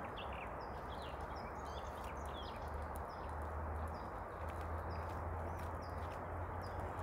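A small songbird chirping over and over, short high notes about twice a second, over a steady outdoor hiss. Faint clicks of a knife scraping and cutting a pike on a board come in here and there.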